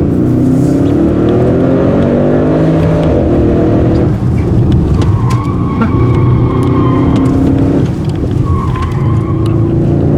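Audi RS6's twin-turbo V8 accelerating hard under full load, heard from inside the car: the engine note climbs in pitch, drops at a gear change about four seconds in and again near eight seconds, then climbs again.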